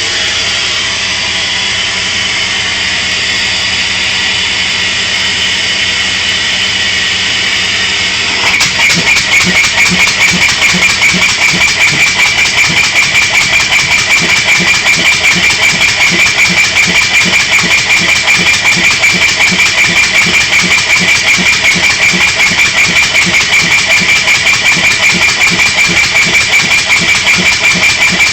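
Briggs & Stratton 3.5 HP engine, its camshaft reworked to run as an air motor, driven by compressed air. It begins with a steady hiss of air, then about eight seconds in it catches into a fast, even chuffing with a high whistle over it.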